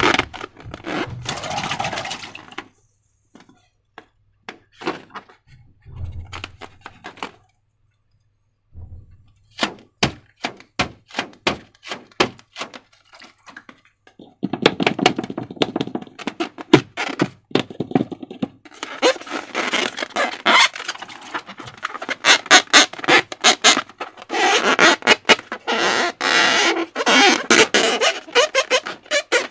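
Slime being worked by hand: a run of sharp sticky clicks, then from about halfway on dense wet crackling and squelching.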